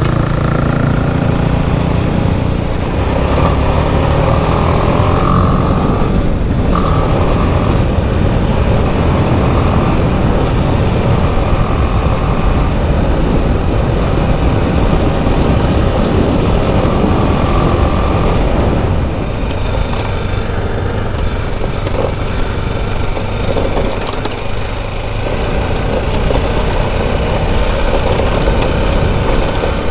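Motorcycle engine running steadily while riding, with a constant rush of road and wind noise; it eases a little about two-thirds of the way through.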